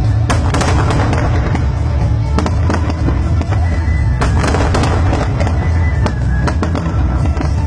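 Fireworks display bursting in rapid clusters of sharp cracks and crackling over a continuous deep booming rumble, with music playing along.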